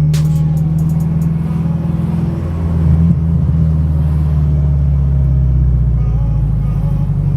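Subaru engine running through a freshly straight-piped exhaust, its muffler cut off and replaced by plain metal pipe: a steady deep drone with a brief rise in level about three seconds in.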